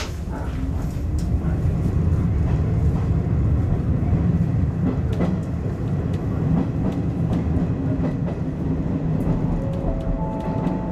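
Izuhakone Railway 5000 series electric train running on the track, heard from inside the cab: a steady low rumble of wheels and running gear that grows louder over the first couple of seconds as the train picks up speed after leaving the station, with scattered clicks from the rail joints. A few steady whining tones come in near the end.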